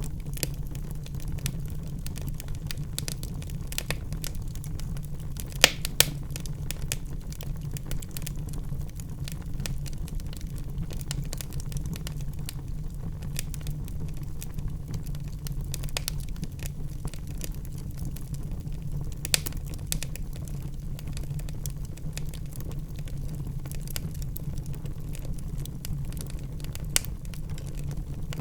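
Wood fire burning in a fireplace, crackling steadily with a low rumble of flames under many small snaps. There are a few louder pops, two close together about six seconds in and others near 19 and 27 seconds.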